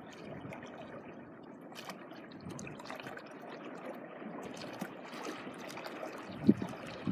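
Gentle sea water washing and trickling along the shore, a steady rushing hiss with small crackles. A brief low thump comes about six and a half seconds in.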